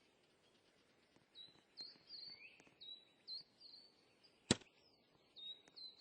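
A small bird chirping: a quick run of short, high, repeated notes, with one sharp click about two-thirds of the way through.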